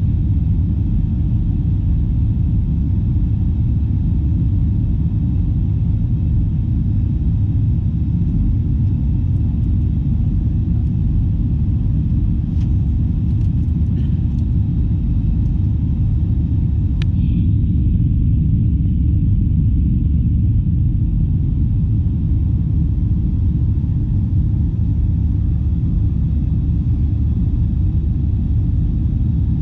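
Steady low rumble of an Airbus A321-211 airliner heard inside the passenger cabin, with a few faint clicks near the middle.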